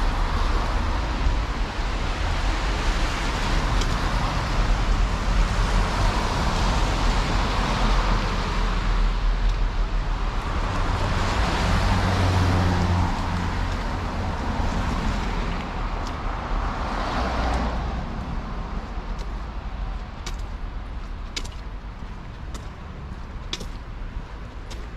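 City street traffic: cars passing one after another, their noise swelling and fading, easing off about three-quarters of the way through. A few sharp clicks near the end.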